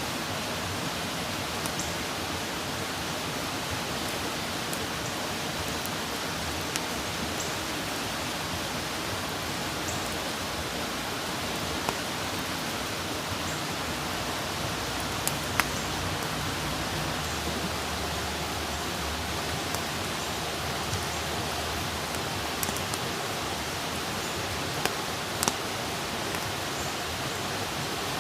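Wood campfire burning with a steady rushing hiss, broken by scattered sharp crackles and pops from the burning wood, a dozen or so, irregularly spaced.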